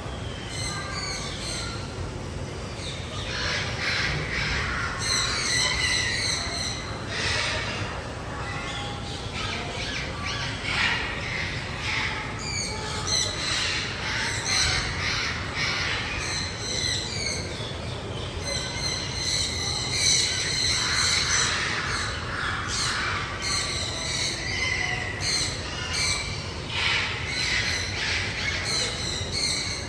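Several birds calling over and over in overlapping bouts, with a steady low hum underneath.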